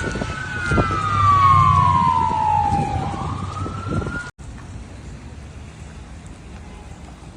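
A siren wailing over a loud low rumble of wind noise, its pitch falling slowly for a few seconds and then starting to rise again. The sound cuts off abruptly a little over four seconds in, leaving a quieter steady rushing noise.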